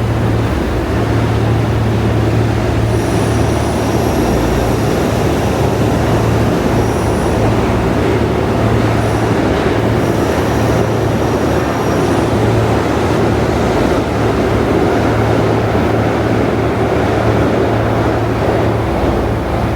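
Shinkansen train moving along a station platform: a loud, steady rumble with a constant low hum, and faint high-pitched whines that come and go.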